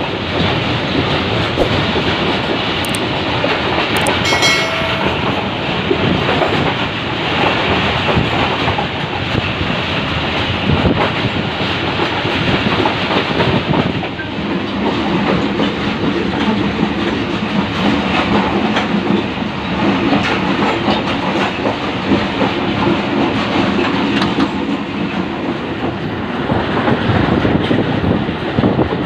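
Passenger coach of the Rahman Baba Express running at speed, its wheels clattering over the rail joints with steady rushing noise, heard from beside an open coach door. A brief high tone sounds about four seconds in, and a steady low drone joins from about halfway.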